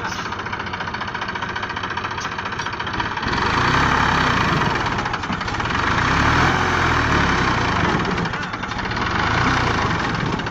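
Diesel engine of farm machinery running, growing louder about three seconds in and then swelling and easing in loudness.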